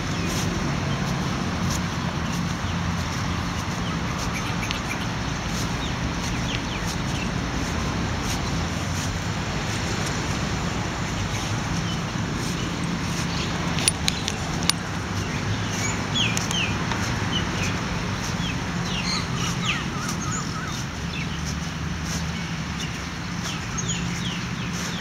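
Birds chirping in short, quick calls that come more often in the second half, over a steady low hum and outdoor background noise. A couple of sharp clicks sound about halfway.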